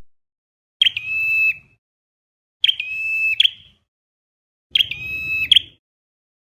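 Flowerpecker calls played as a trapping lure. There are three calls about two seconds apart, each a sharp note, then a held thin high tone, then another sharp note.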